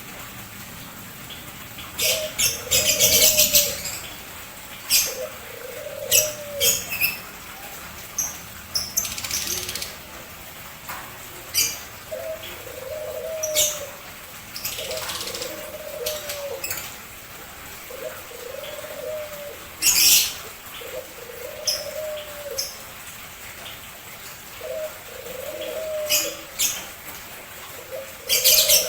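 Caged lovebirds and munias calling: sharp, loud high chirps at irregular moments over a low, soft call repeated every one to two seconds.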